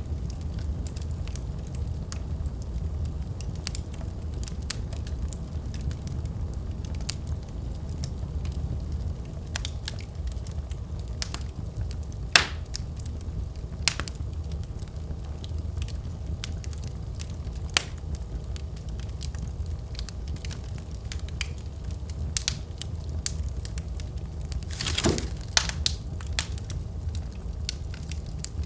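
Wood fire burning in a fireplace: a steady low rumble of flame with scattered sharp crackles and pops from the burning logs, a louder pop about twelve seconds in and a short burst of crackling near the end.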